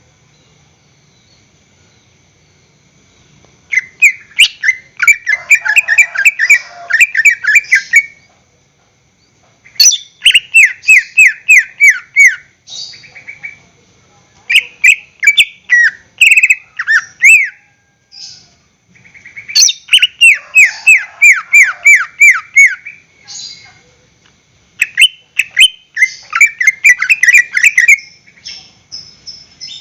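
Cucak ijo (green leafbird) singing loudly in five bursts of rapid, falling chattering notes with brief pauses between them. The song begins a few seconds in.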